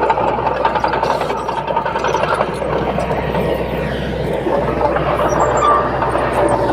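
Komatsu D30P crawler bulldozer working, its diesel engine running under dense track clatter. A steady high squeal from the undercarriage runs through it, and a lower squeal slowly falls in pitch in the second half.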